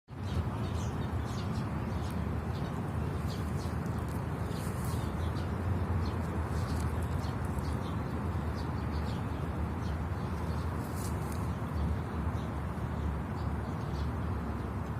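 Birds chirping, many short high calls scattered throughout, over a steady low rumble of background noise.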